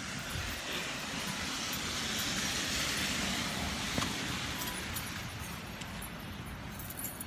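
A car passing on a wet street, its tyres hissing as it swells and then fades over a few seconds.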